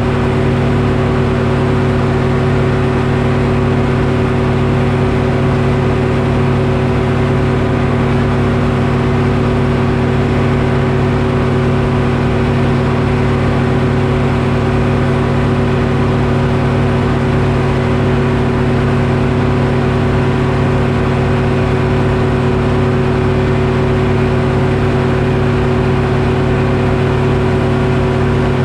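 Detroit Diesel engine of a Frick sawmill running at a steady speed, with no change in pitch or level.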